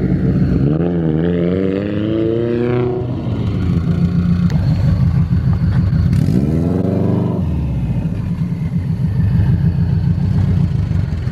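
A car engine running at a loud, lumpy idle, revved twice: a rev that climbs and falls back over about two seconds near the start, and a shorter one around the middle.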